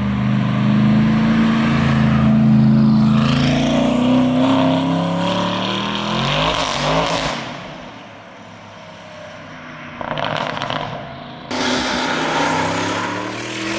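Tuned Audi RS6 V8 engine and exhaust accelerating hard, the note climbing for several seconds before a car passes. Then a quieter stretch, a short burst, and another RS6 engine pulling from near the end, with abrupt jumps between clips.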